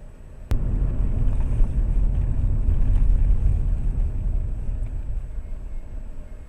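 A sharp click, then a loud low rumble inside a moving car, as of the tyres running over a rough surface, lasting about five and a half seconds and easing off near the end.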